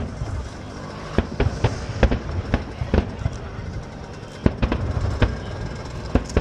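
Aerial fireworks shells bursting: an irregular run of about a dozen sharp bangs, some coming in quick clusters, with a short lull about halfway through.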